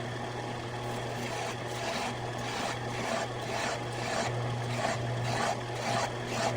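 Metal lathe running with a steady motor hum while a bolt is turned down into a bearing shaft, with scraping strokes on the spinning metal repeating about two or three times a second from a second or so in.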